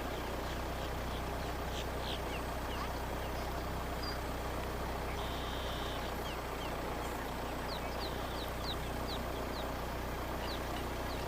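Steady low drone of a car driving slowly, with faint bird chirps scattered over it and a run of short chirps about seven to ten seconds in.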